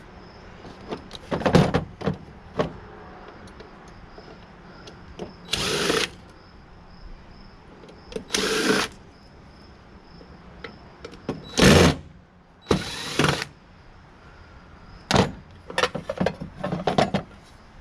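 Cordless drill/driver run in four short bursts while taking a tankless water heater apart, followed near the end by a run of sharp metallic clicks and knocks from parts being handled.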